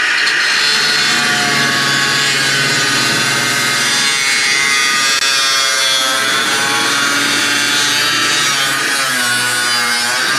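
Power saw cutting through the steel of a car body's door-hinge pillar, running steadily under load with a pitch that wavers as the blade bites.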